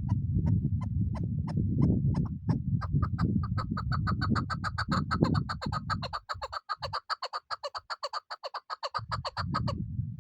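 Chukar partridge calling: a series of clucking notes that start spaced apart and speed up into a rapid run, ending sharply near the end. A low rumble sits under the first half and returns near the end.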